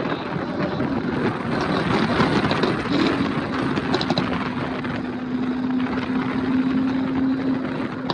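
Lamborghini Aventador's V12 engine running loud, with a few short pops around three to four seconds in, then settling into a steady drone.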